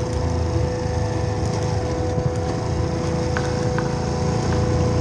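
Mutt Akita motorcycle engine running at a steady speed while riding, with a constant pitch and low rumble from the road and wind.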